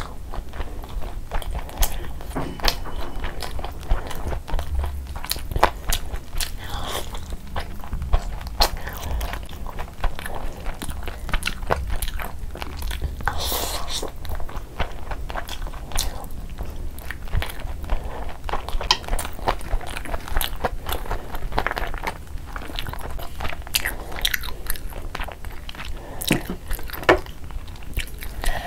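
Close-miked eating sounds: a person chewing mouthfuls of spiced rice and meat, with wet smacking and many short sharp clicks.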